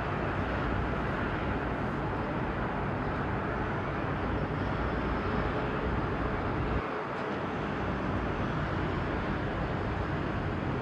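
Steady outdoor harbour noise at a ship's berthing: a continuous low rumble with a hiss on top, briefly dropping away in the low end about seven seconds in.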